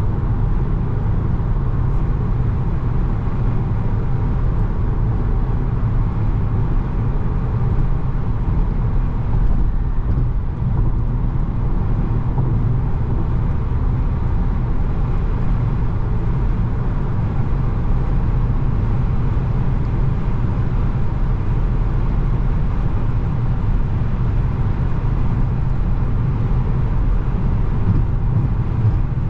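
Inside the cabin of a 2017 Volkswagen Jetta SE manual cruising on the highway: a steady engine drone mixed with tyre and road noise.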